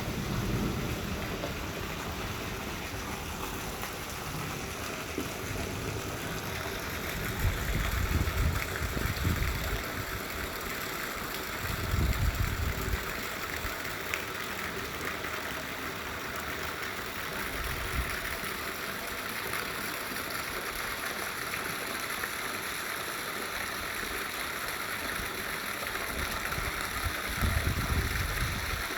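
Steady rain falling, an even hiss throughout, with a few short low rumbles breaking in three times.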